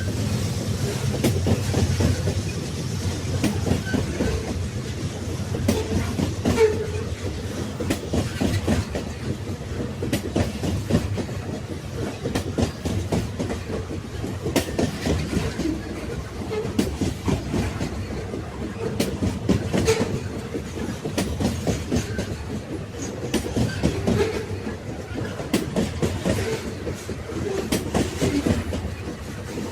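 Railway wagons rolling along the track: a steady low rumble with frequent irregular clickety-clack knocks of the wheels over the rail joints.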